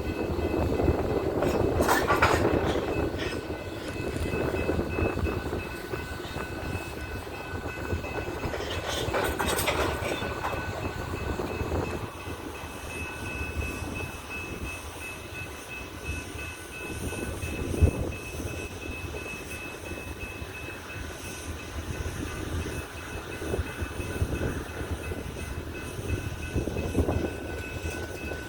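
Coal train's cars rolling along the rails, a steady rumble with clickety-clack of wheels over rail joints and a few sharp clanks in the first ten seconds.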